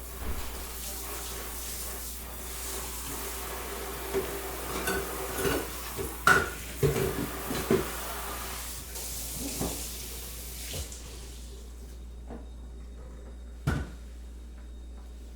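Kitchen tap running, with dishes and utensils clinking and knocking in a cluster a few seconds in. The running water stops about twelve seconds in, and one more knock follows.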